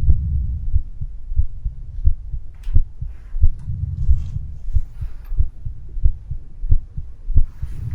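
Storm wind buffeting the microphone: a low, uneven rumble with irregular thumps through it.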